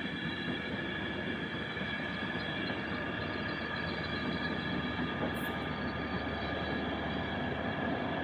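Passenger train rolling past along the tracks: a steady rumble of wheels on rail with a high-pitched whine held over it. Near the middle there is a brief faint hiss.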